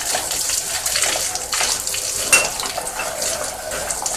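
Water spraying from a washout wand into a steam boiler's sections, hissing and splashing against metal with scattered clinks, the sharpest one about two seconds in. The spray is flushing oil and black sludge out of the boiler.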